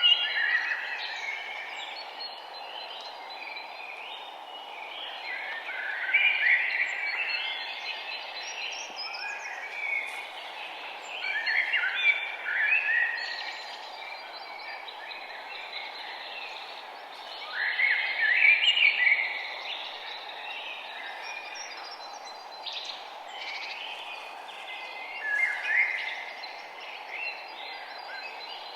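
Songbirds singing, with a loud song phrase about every five to seven seconds and quieter calls between, over a steady background hiss.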